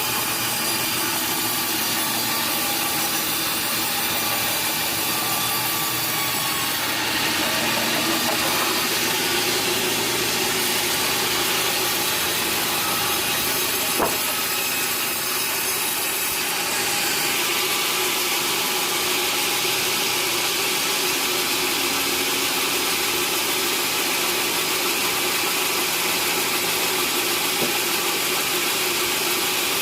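Sawmill saw running and cutting through timber: a steady mechanical noise with a single sharp knock about halfway through.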